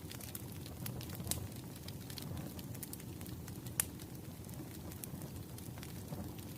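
Wood fire crackling: a steady low rumble of burning logs with irregular sharp pops and snaps, the loudest about four seconds in.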